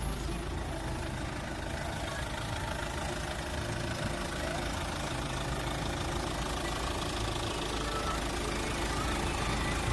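Turbo-diesel engine of a 2007 Chevrolet Captiva (Daewoo Winstorm) running steadily.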